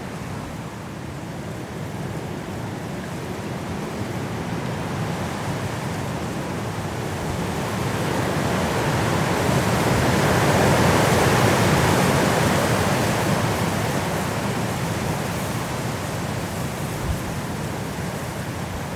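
High wind blowing through trees in a snowstorm: a long gust swells to its loudest about halfway through and then eases off.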